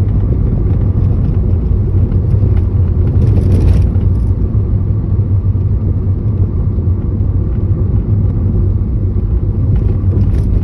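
Steady road and engine rumble inside the cabin of a moving 2013 Mini Cooper S, with an irregular, plasticky rattle chattering over it, most busily about three seconds in. The rattle seems to come from under the dash, and the owner cannot tell whether it is the floorboard area or the steering components.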